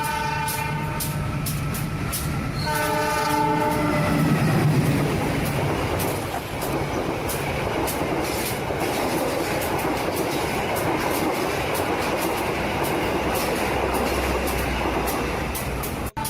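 A train horn sounds as a pitched blast at the start and again about three seconds in. Then comes the steady rumble of a running train with regular clicking of wheels on rail joints. It cuts out abruptly just before the end.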